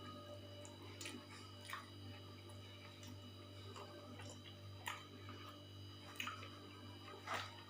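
Eating sounds: soft wet squishes and short clicks of food being chewed, a handful of them spaced a second or so apart, over a steady low hum.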